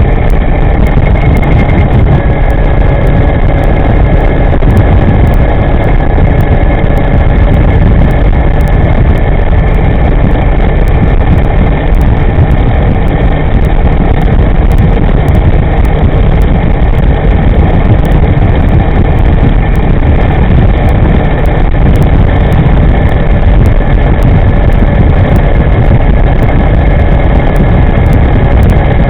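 Steady, loud rush of wind and road noise from an electric scooter riding at speed, with a faint steady high whine running through it.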